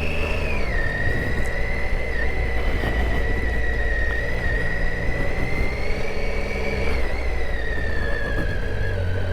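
Triumph Tiger 800 XCa's inline three-cylinder engine running at low, steady revs, with a high whine over it that dips in pitch about a second in and then holds.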